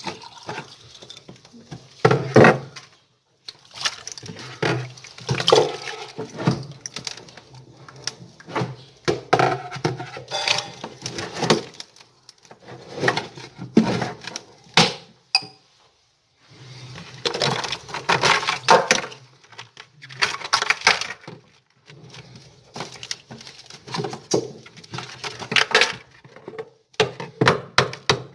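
Repeated clinks and knocks of hand tools against metal during work on a refrigerator, over a low steady hum. Near the end comes a run of quick, even taps.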